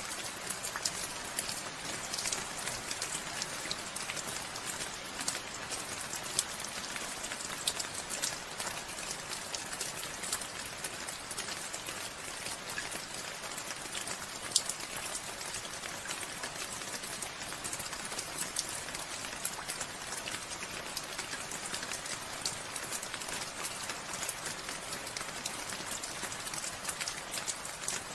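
Steady rain falling, with many individual drops pattering and ticking on a surface; one drop lands louder about halfway through.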